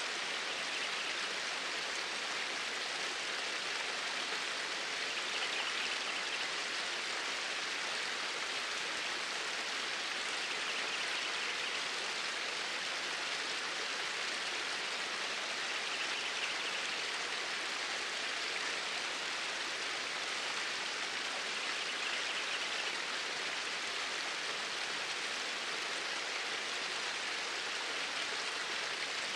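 Flowing water, a steady unbroken rush without pauses.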